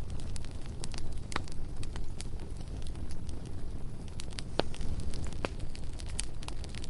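Bonfire burning: wood crackling with scattered, irregular sharp pops over a steady low rumble.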